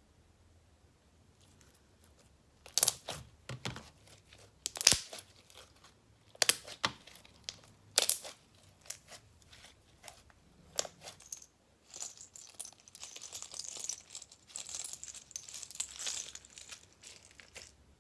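Clear slime being worked by hand: a series of sharp clicks and pops as it is pressed and pulled, then a denser crackling over the last few seconds.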